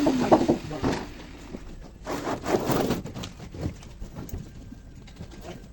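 Music ending within the first second, then scattered, irregular knocks and taps.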